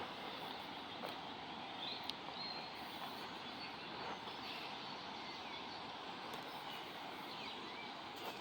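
Small birds chirping and twittering in short high calls over a steady rushing background noise.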